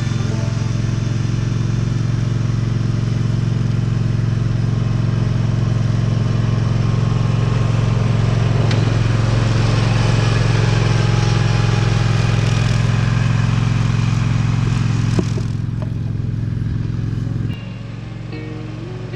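An engine running steadily at a constant pitch, then dropping in level in two steps near the end.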